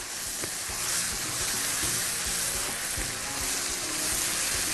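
Minced sausage and meat frying with freshly added garlic in a pan: a steady sizzle as a spatula stirs them round.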